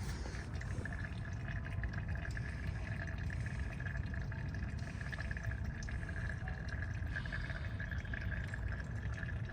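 Brake fluid trickling and dripping out of an opened rear brake bleeder screw as the line is flushed and bled of air, over a steady hum.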